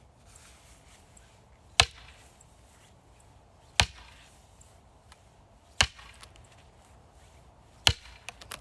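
Axe splitting firewood: four sharp chopping strikes about two seconds apart, with a few small knocks of wood near the end.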